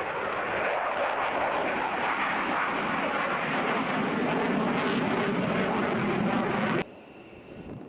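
Fighter jet engine roar, loud and steady, growing deeper about halfway through, then cutting off suddenly near the end.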